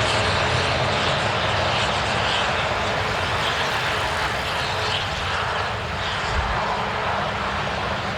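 Embraer E195-E2 airliner's Pratt & Whitney PW1900G geared turbofan engines running at take-off power, a steady loud rushing roar that eases off slightly toward the end.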